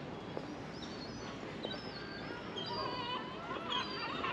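Birds chirping and calling over steady street background, with short high chirps throughout and louder calls in the second half.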